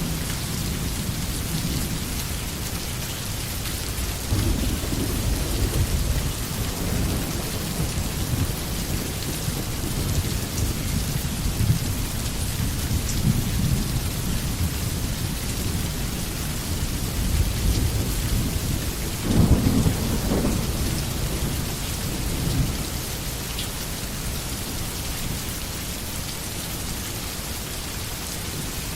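Steady rainfall with low, rolling thunder rumbling underneath, swelling in waves; the strongest rumble comes about two-thirds of the way through.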